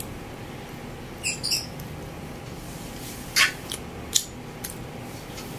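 Eating sounds while chewing a dumpling: a few short, sharp, wet mouth smacks and clicks spaced about a second apart, over a steady low room hum.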